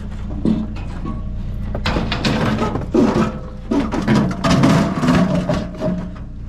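Clattering, knocking and rustling of objects being handled and moved, strongest from about two seconds in until near the end, over the low steady hum of an idling vehicle engine.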